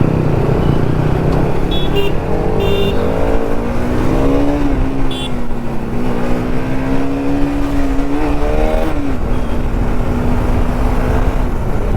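Bajaj Pulsar RS200 motorcycle engine running under way, its note rising and falling with the throttle, under heavy wind rumble on a helmet-mounted camera.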